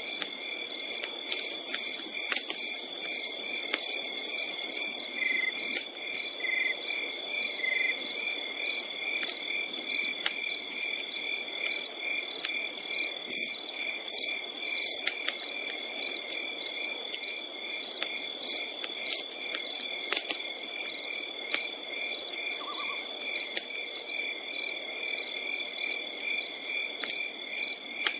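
Crickets chirping in an even rhythm of about three pulses a second over a steady high insect trill, with scattered sharp crackles and pops of a campfire, a few louder ones midway.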